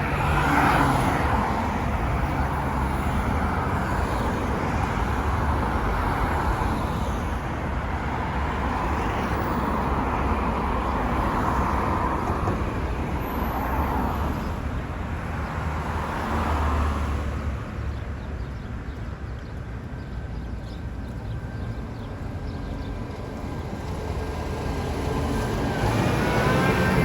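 City street traffic: several cars pass one after another during the first half, followed by a quieter stretch of general street noise, with traffic building again near the end.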